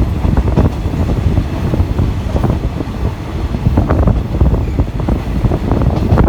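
Passenger train carriage running along the track: a steady low rumble with constant rattling, and wind buffeting the microphone through the open window.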